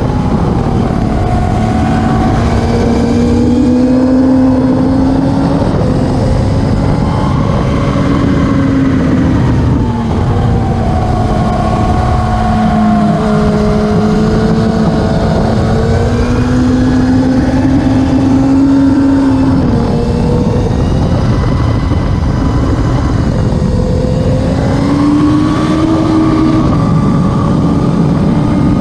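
Classic superbike engines running hard at high revs without a break, the pitch rising and falling gently over several seconds at a time.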